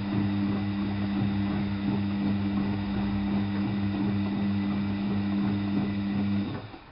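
Washing machine drain pump humming steadily with a low mains-type buzz over water noise, then switching off near the end.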